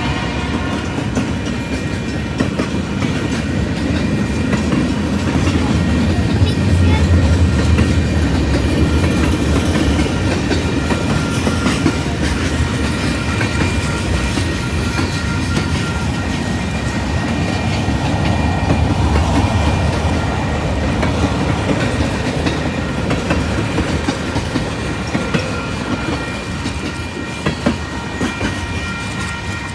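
A train rolling past, its wheels clattering steadily over the rail joints with a continuous low rumble that swells twice.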